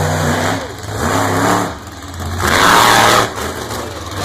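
Monster truck's engine revving hard, its pitch rising and falling with the throttle. It peaks in a louder, harsher stretch of noise a little past halfway, then drops back.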